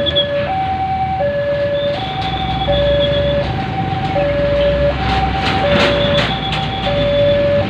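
Two-tone hi-lo siren, a lower and a higher note swapping about every three-quarters of a second, over a steady low vehicle rumble.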